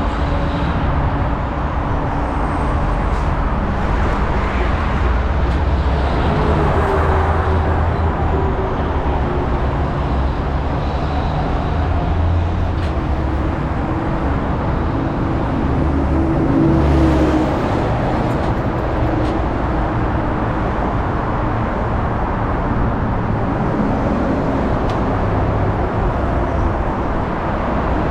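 Car driving at freeway speed: steady tyre and road noise with an engine hum, swelling briefly about two-thirds of the way through.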